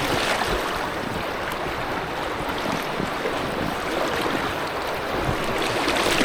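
Steady rush of a small river rapid, water running fast around an inflatable kayak that is holding still on the wave.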